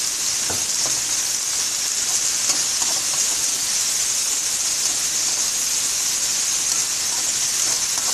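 Chicken strips and onions frying in hot oil in an aluminium kadai: a steady sizzle, with a metal slotted spatula stirring and now and then scraping the pan.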